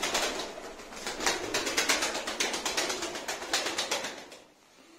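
Domestic pigeons flapping their wings in the loft, a fast run of wing claps that raises dust and dies away about four seconds in.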